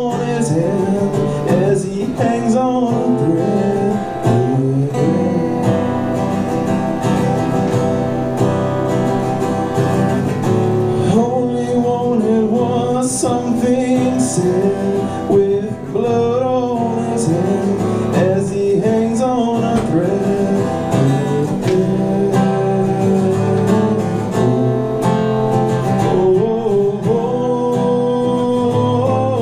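Live band music led by guitars, strummed chords under a lead line that bends in pitch, with no words sung.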